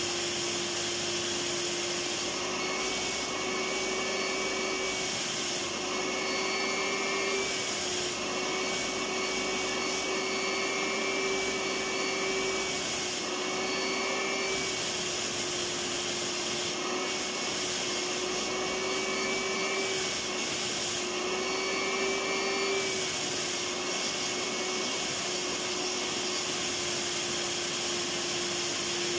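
Electric vacuum cleaner running continuously: a steady motor whine over rushing air. The pitch lifts slightly for a few seconds at a time, several times, then settles back.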